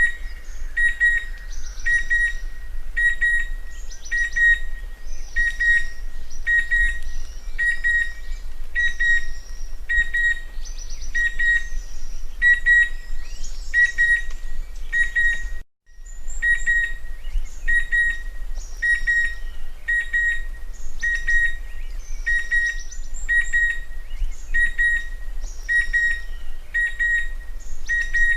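Chestnut-winged cuckoo calling: a long, even series of short, sharp whistled notes, a little more than one a second, with other birds calling faintly behind. The series stops for a moment about halfway through, then carries on.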